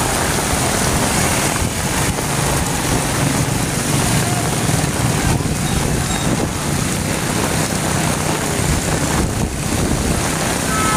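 Heavy rain pouring onto a wet street, a steady loud hiss, with a low rumble of wind on the microphone and passing motorbike traffic underneath.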